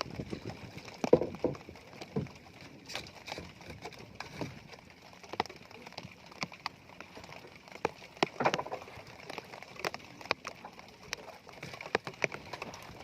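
Irregular knocks and clicks of fishing gear being handled on a small boat while a longline is hauled, over a steady hiss of rain.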